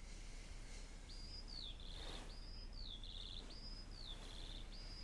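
A songbird faintly singing the same short phrase four times, about once every second and a half, starting about a second in. Each phrase is a high whistle that slides down into a brief trill.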